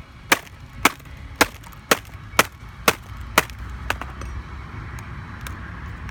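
Repeated sharp blows on a MacBook keyboard, struck about twice a second to knock out a stubborn K key. About seven strikes, then they stop a little past halfway, leaving only a few faint ticks.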